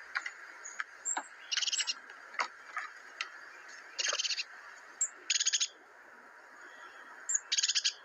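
A bird's short, high trilled chirps, repeated four times a second or two apart, over a steady faint hiss with a few scattered clicks.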